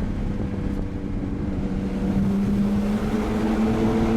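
Straight-piped Nissan RB20 straight-six in an R32 Skyline GTST, running steadily through its 3-inch straight pipe. From about halfway through, its note rises a little and gets louder as the car accelerates.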